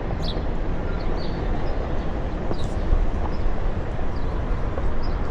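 Steady low rumble and hiss of a Onewheel rolling over pavement, with a few short high chirps over it near the start and middle.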